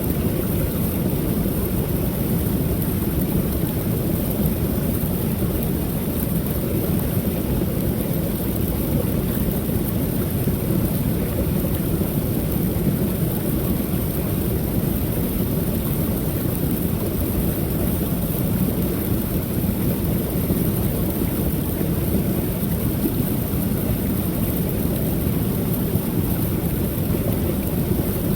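Creek waterfall: water pouring over the falls in a steady, low, rushing wash, unchanging throughout, with no separate splashes or other events.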